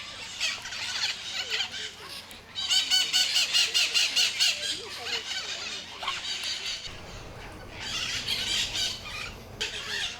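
Birds calling in a large aviary: harsh squawking bouts, with a fast run of repeated squawks, about five a second, for a couple of seconds, and more squawks later on.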